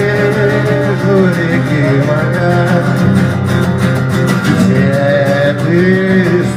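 Live acoustic music: a strummed acoustic guitar over a steady low bass line, with a sliding melody line on top.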